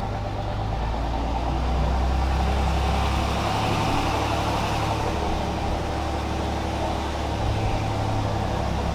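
2006 Cummins 5.9-litre inline-six turbo diesel in a Ram pickup running steadily as the truck is driven. The low engine note shifts about three and a half seconds in.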